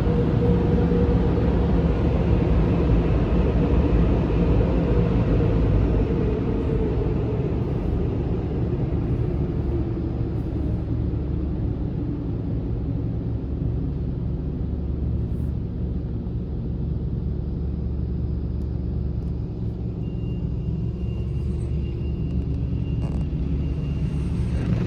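Touchless automatic car wash running around the car: a steady low rumble with a hiss of spray that fades over the first ten seconds, and a machine hum that slides slightly lower.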